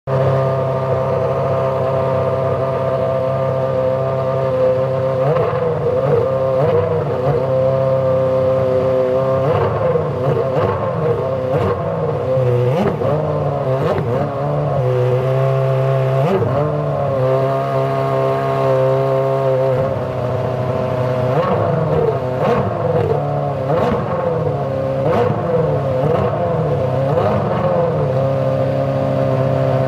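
Ferrari F60 Formula One car's 2.4-litre V8 engine being warmed up: a steady idle broken by repeated throttle blips, the revs rising and falling in quick sweeps in several bursts before settling back to idle.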